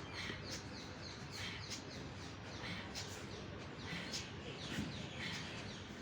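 Birds chirping in short, repeated calls several times a second, over a steady background hiss.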